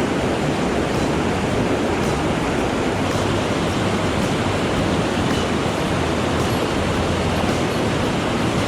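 Mountain stream water rushing steadily, a loud even wash of sound.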